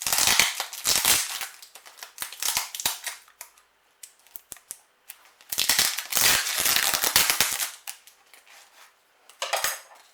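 Plant packaging being unwrapped by hand: loud crackling and crinkling in two long spells, with a short burst near the end.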